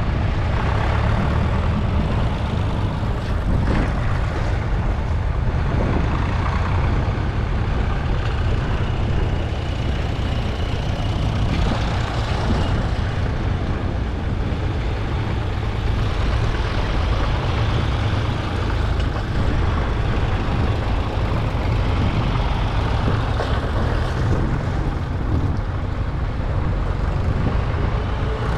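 Vintage tractor engines running steadily, a deep continuous rumble with road noise.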